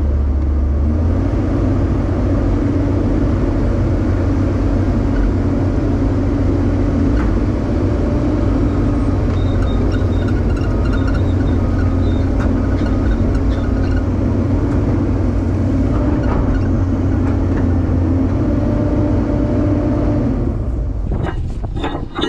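Heavy-equipment diesel engine running steadily under load. Short high squeaks come through partway in, and the engine note drops away near the end with a few sharp clicks.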